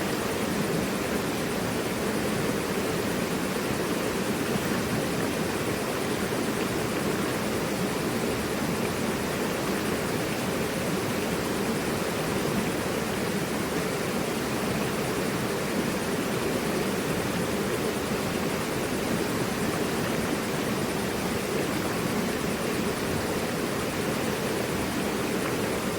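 Mountain river rushing over rocks: a steady, even roar of flowing water that does not change.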